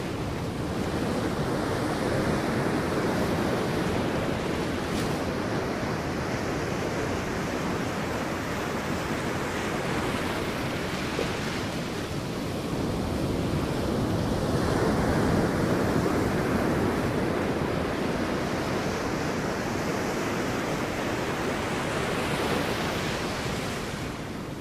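Sea waves breaking and washing on a beach: continuous surf that swells and eases in slow surges, loudest about halfway through.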